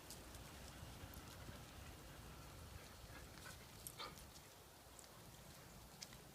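Faint, scattered clicks and scuffles of puppies playing, likely paws pattering on the floor, with a slightly louder scrape about four seconds in.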